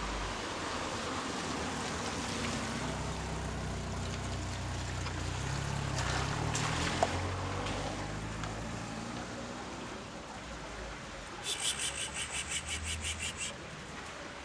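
A low motor hum swells and then fades away, as from a passing vehicle, with a single sharp click midway. Near the end comes a rapid run of high, pitched pulses, about six a second, lasting about two seconds.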